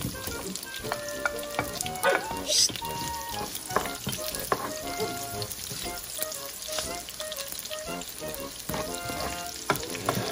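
Sliced onions dropping into hot rendered pork belly fat and sizzling, while a spatula stirs them through the frying pork.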